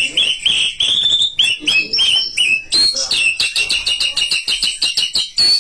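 White-rumped shama (murai batu) singing loudly. It opens with a string of clear arched whistles at about two a second, then about three seconds in breaks into a fast run of repeated notes.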